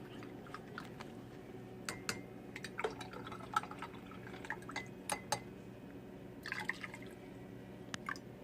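A spoon stirring tea in a cup, clinking lightly against the side at irregular intervals, with small liquid swirling sounds.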